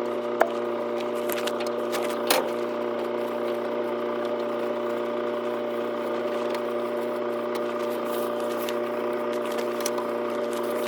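Tractor pulling a round baler through thick hay, running at a steady, even drone, with a couple of sharp clicks in the first few seconds.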